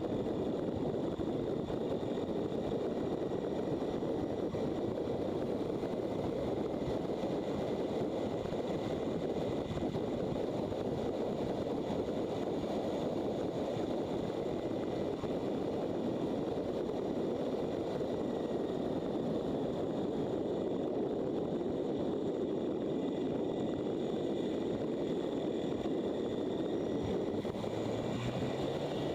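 Motorcycle riding at a steady speed: an even rush of wind and road noise over the engine, with no shifts or revving.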